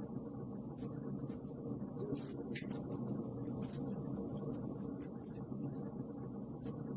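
Wood fire crackling: irregular small pops and snaps scattered over a steady low rushing background.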